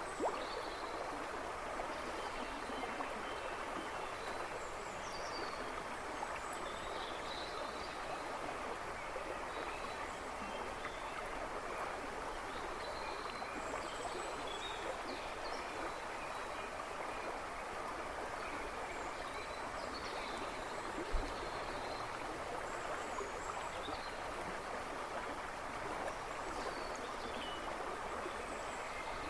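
A river rushing and babbling steadily, with small birds chirping now and then in the background. A single brief low thump comes about two-thirds of the way through.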